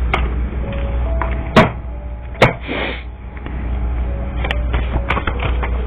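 Tarot cards being handled on a table: two sharp knocks about one and a half and two and a half seconds in, a short rustle right after the second, and lighter taps near the end, over faint background music.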